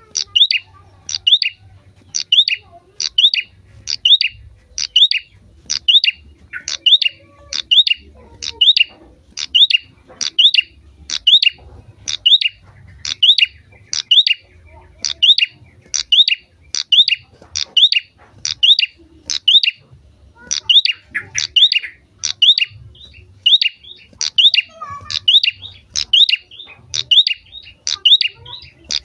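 Prinia (prenjak) calling over and over: a sharp, high two-part note repeated about once a second.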